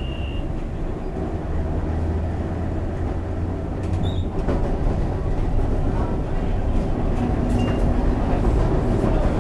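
St. Charles streetcar running along its track: a steady low rumble with scattered clicks and knocks, growing louder toward the end.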